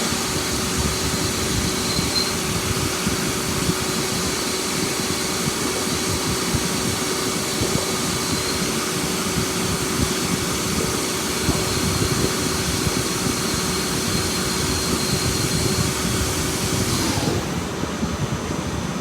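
CNC lathe cutting a keyway slot: steady machine noise with a continuous hum. The higher hiss falls away near the end.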